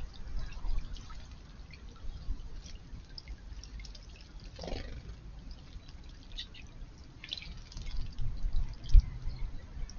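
Water dripping and splashing in a garden pond, with scattered faint short high chirps, one falling plop about halfway through, and a low thump near the end.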